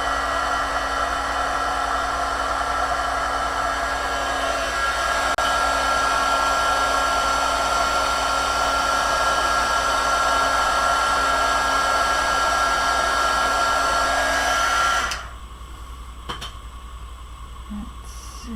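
Craft heat tool blowing steadily with a high whine, melting embossing powder; it cuts off suddenly about fifteen seconds in.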